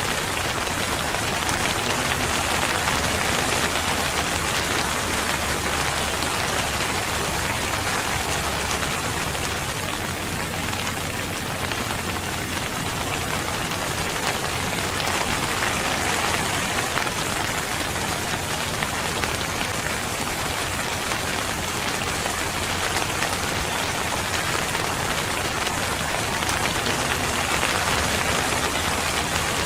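Steady, even rainfall pattering on a surface.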